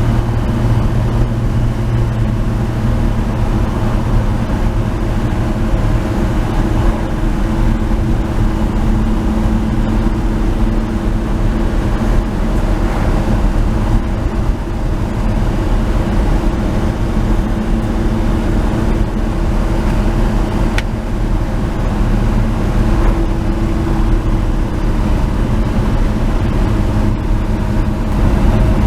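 1949 Chevrolet 3100 pickup's 216 inline-six running steadily while driving along at road speed, with tyre and road noise.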